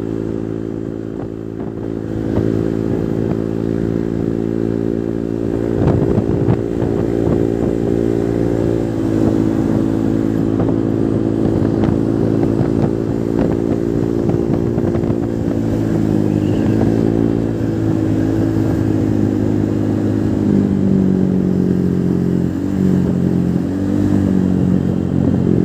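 Honda Vario scooter engine running through an aftermarket exhaust, mostly at a steady idle. From about two-thirds of the way in, the engine note dips and rises a few times with small throttle changes, and there is a brief clatter about a quarter of the way in.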